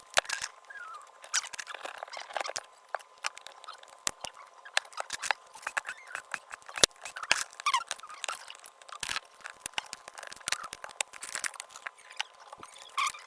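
Small hand tools working on an iPhone 8 Plus as it is opened up: a long run of light clicks, scrapes and little squeaks, over a faint steady high tone.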